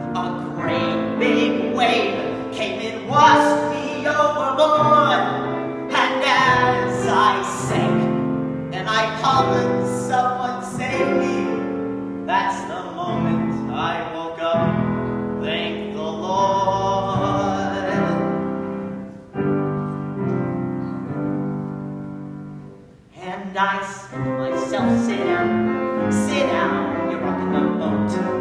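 A baritone singing a show tune to piano accompaniment, with a brief drop in loudness about three-quarters of the way through.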